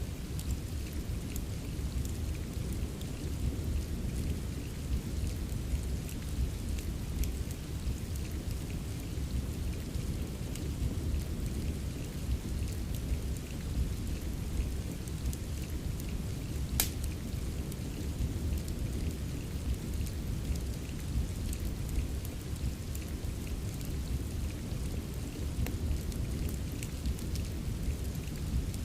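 Steady rain ambience with a deep, continuous low rumble, mixed with small crackles from a fireplace; one sharp pop stands out about two-thirds of the way through.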